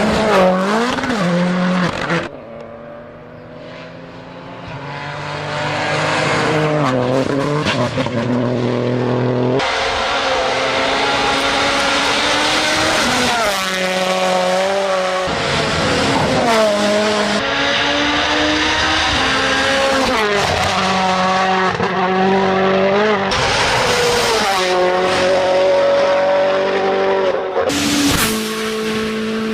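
Tuned car engines revving hard and rising and falling in pitch as the cars pull away one after another, with tyres squealing at times. The sound changes abruptly from one car to the next every few seconds.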